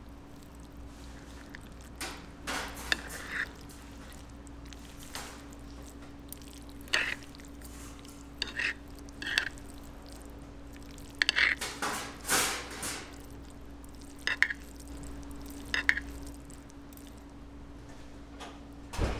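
A series of short, irregular clinks and knocks, some ringing briefly, over a steady low hum.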